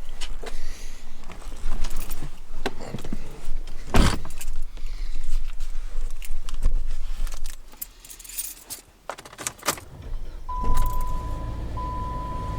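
Keys jangling, with a run of clicks and knocks and one loud thump about four seconds in. Just after ten seconds a car engine starts and runs steadily, while the dashboard warning chime sounds in long beeps.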